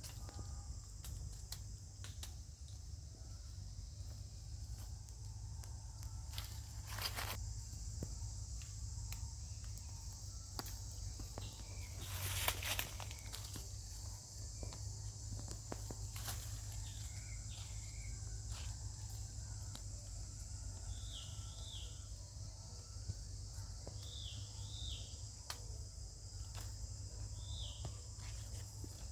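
Forest ambience: a steady high drone of insects, with scattered clicks, rustles and a brief louder rustle about twelve seconds in. In the last third, short high chirping calls come in pairs every second or two.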